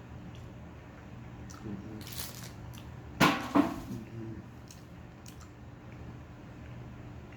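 A man lets out two short, harsh cough-like grunts about three seconds in, after a brief breathy hiss, as he reacts to a bad-tasting beef snack stick. A steady low hum runs underneath.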